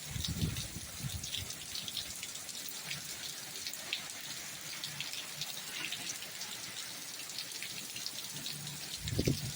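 Rain falling steadily as a dense patter of drops, with low thumps at the start and again near the end.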